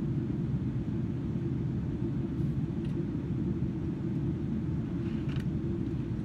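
Steady low rumble of a Boeing 777-300ER's cabin in flight: the drone of its GE90 engines and airflow past the fuselage, heard from inside the cabin. A faint brief rattle about five seconds in.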